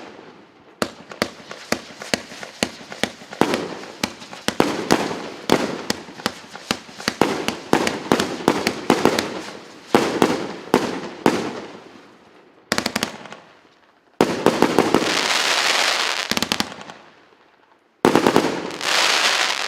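Consumer firework cake (battery) RC894 firing: a rapid series of sharp bangs, about two to three a second, each ringing out, then after a brief lull two long spells of dense crackling bursts near the end.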